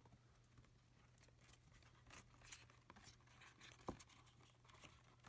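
Near silence: faint scattered rustling and small clicks over a low steady hum, growing a little busier about two seconds in.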